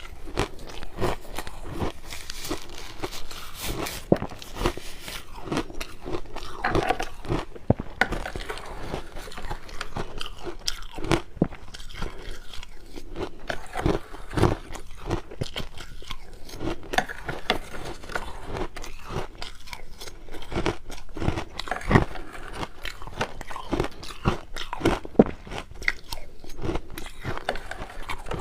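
Close-up crunching and chewing of crushed ice: a steady, irregular run of crisp crunches as mouthfuls are bitten and ground between the teeth.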